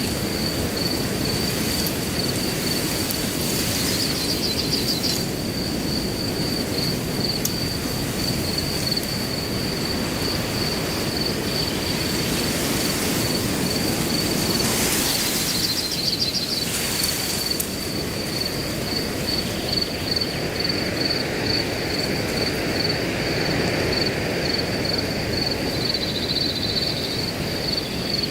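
Wind blowing through grass, a steady low rush that swells briefly about four seconds in and again around the middle, with a cricket chirping in an even, high-pitched pulse throughout.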